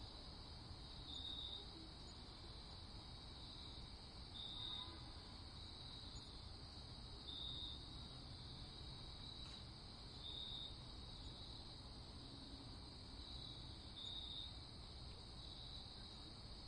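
Faint, steady high trill of crickets at night, with a slightly louder chirp standing out every few seconds over a low background hush.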